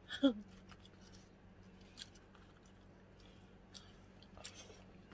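Faint, scattered mouth clicks and smacks of someone chewing food, over a low steady hum.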